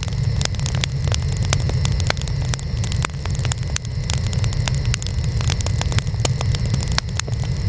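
Burning wood fire: a steady low roar of flames with many sharp, irregular crackles and pops from the burning wood.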